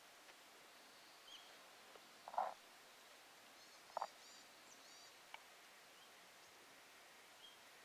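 Quiet outdoor ambience with faint, high-pitched chirps of small wild birds. Two short, louder sounds come about a second and a half apart, a few seconds in.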